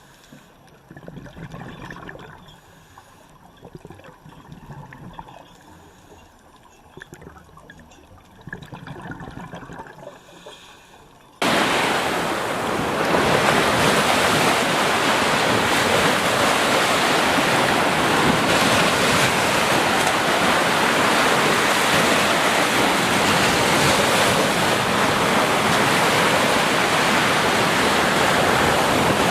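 Soft, uneven water sounds that cut off abruptly about eleven seconds in, giving way to a loud, steady rush of surf with wind on the microphone.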